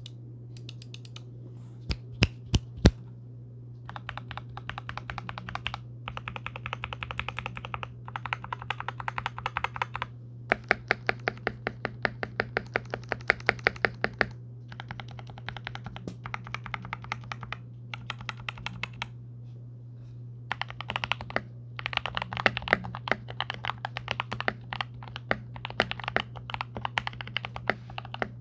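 Typing on a 66% hotswap mechanical keyboard with lubed Durock switches, a tape-modded PCB and foam-filled case: a few louder single strokes about two seconds in, then runs of fast typing a couple of seconds long with short pauses between. A low steady hum lies underneath.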